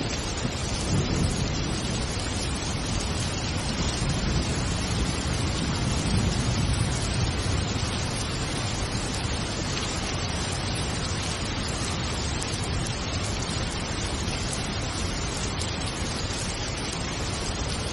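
Steady rain, an even hiss, with a low rumble swelling and fading underneath.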